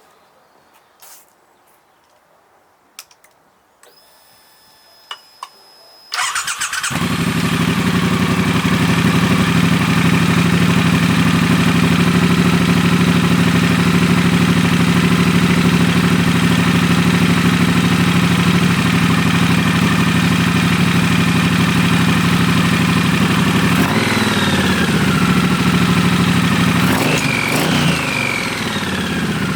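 Triumph Bonneville Bobber Black's 1200 cc parallel twin, fitted with Motone Saturn V slip-on exhausts, starting up after a few faint clicks about six seconds in. It then idles steadily, and the throttle is blipped twice near the end, the revs rising and falling each time.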